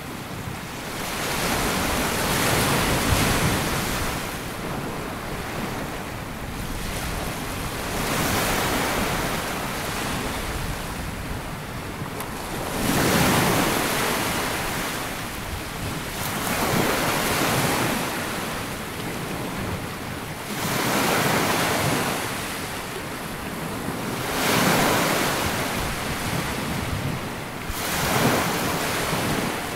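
Sea waves breaking and washing up a sandy beach, each surge swelling and fading away every three to four seconds.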